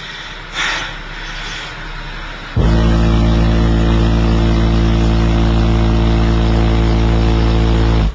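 A 56 Hz test-tone burp played through two Hifonics Goliath 15-inch subwoofers, heard from inside their ported enclosure: a very loud, steady low tone that starts suddenly about two and a half seconds in and cuts off suddenly about five and a half seconds later.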